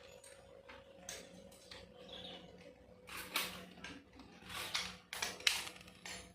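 Faint workshop handling noises of a motorcycle exhaust being fitted: a few short scrapes and rustles of metal parts and tools, with one sharp click a little after halfway, over a steady low hum.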